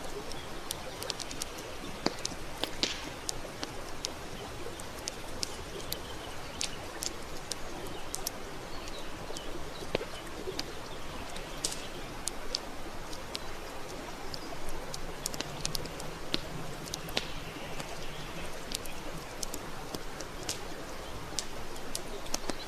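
Wood campfire crackling: frequent sharp pops and snaps over a steady hiss of burning wood. About two-thirds of the way through, a faint low cooing call sounds for a couple of seconds.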